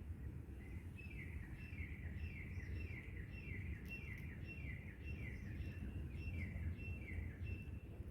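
A bird calling a long run of short, downward-sliding notes, repeated evenly for several seconds, over a steady low outdoor rumble.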